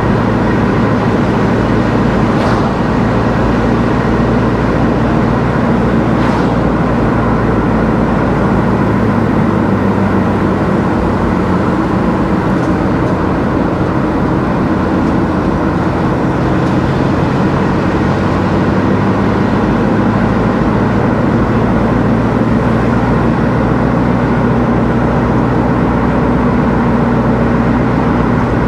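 Car driving at a steady pace: an even blend of engine and tyre/road noise. Two faint ticks come in the first several seconds.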